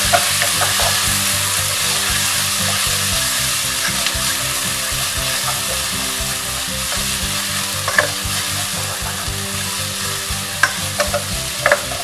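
Onions, ginger-garlic paste and green chillies sizzling in hot oil in a nonstick pan, stirred with a wooden spatula that scrapes the pan. A few sharp taps of the spatula against the pan come about eight seconds in and near the end.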